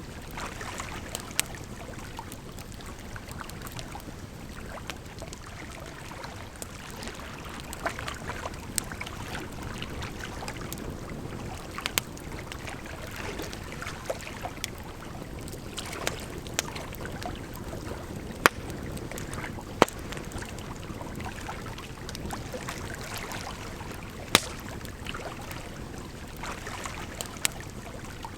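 Campfire crackling, with sharp irregular pops every second or two, over a steady rush of running water.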